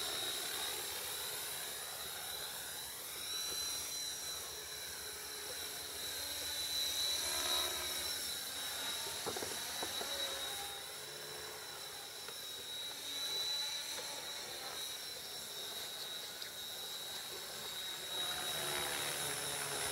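Electric radio-controlled model helicopter in flight: a steady, high-pitched motor and rotor whine that wavers slightly in pitch and level.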